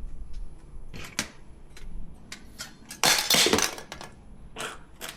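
Handles being fitted onto a portable compressor mini fridge: a string of sharp clicks and knocks of hard parts, with a louder clatter lasting about half a second about three seconds in.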